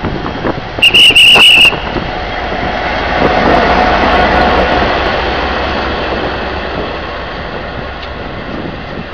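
A short, shrill whistle blast about a second in, then a Taiwan Railways diesel locomotive passing close by: its engine noise swells and slowly fades as the passenger coaches roll past behind it.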